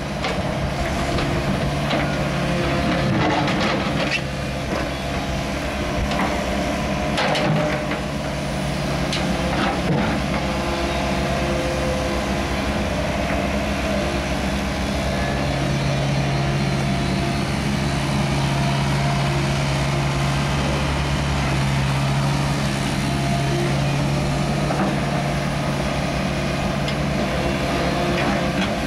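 Engine of heavy equipment running steadily for a drain field excavation, with a few sharp knocks and scrapes in the first third.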